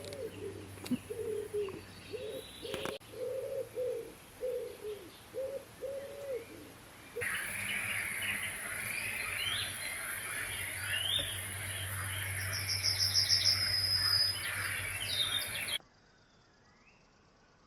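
Birdsong: a pigeon cooing in a run of short low notes with other birds calling higher up, then, after an abrupt change, a fuller chorus of songbirds over a steady high hiss, with a fast high trill near the end. The sound cuts off to near silence for the last two seconds.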